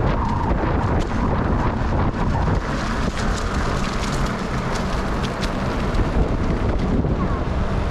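Wind buffeting the microphone while cycling: a loud, steady rumbling rush with scattered small clicks and rattles.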